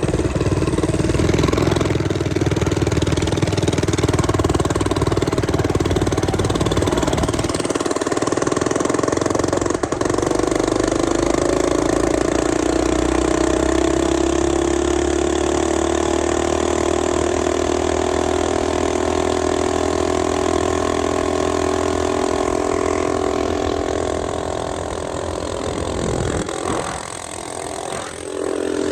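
Mini bike's small single-cylinder four-stroke engine running under throttle. Its pitch climbs for several seconds, then holds steady at high revs, and near the end it drops off briefly before picking up again.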